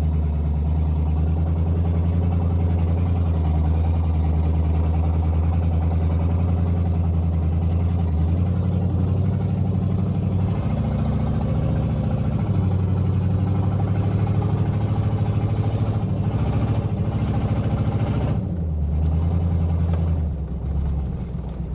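1970 Oldsmobile Delta 88's V8 running steadily while the car is driven, its engine speed stepping up and down several times. The throttle is held open to keep it from stalling, because it dies at idle; the owner thinks the carburetor needs adjusting.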